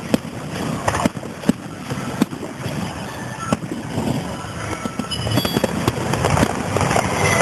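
Fireworks going off: irregular sharp bangs and crackling bursts, several a second, with brief whistles in the second half and a steady murmur of crowd noise underneath.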